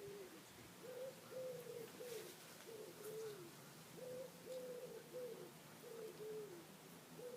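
A pigeon or dove cooing: phrases of soft, low, hollow coos, several notes ending in a downward fall, repeated over and over.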